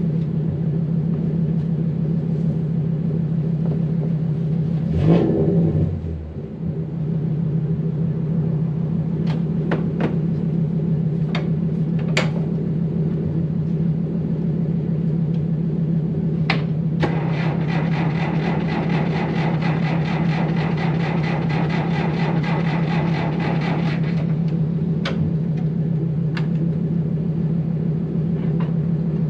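Engine idling steadily, with a heavy clunk about five seconds in and several sharp clicks. Past the middle, a rapid, evenly pulsing buzzing rattle runs for about seven seconds.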